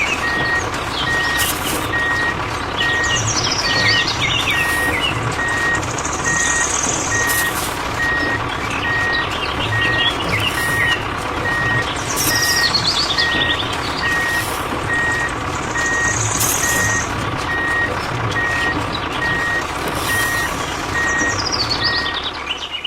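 A heavy vehicle's reversing alarm beeping steadily about once a second over its running engine, with birds chirping in the background.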